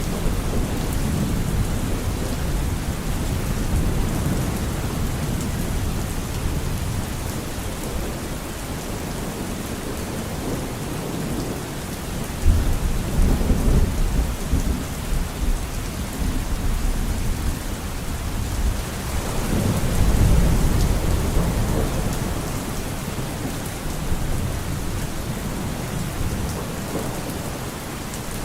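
Steady heavy rain with thunder rumbling: a sudden low crack about twelve seconds in, then a longer rolling rumble past the middle.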